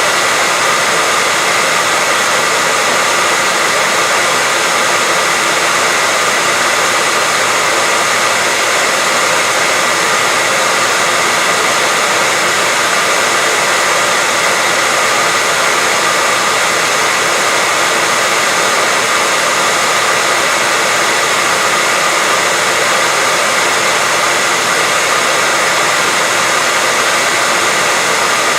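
Continuous white noise: an even, unchanging hiss with a faint steady high whine running through it.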